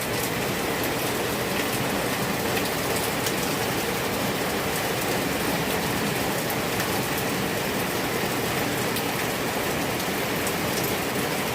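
Steady rain falling outside, a dense even hiss with many individual drops ticking sharply throughout.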